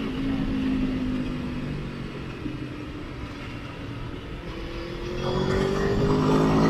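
Sport motorcycle engine on the road, holding steady revs at first and easing off in the middle, then revving up with a rising pitch and growing louder over the last couple of seconds as the bike accelerates.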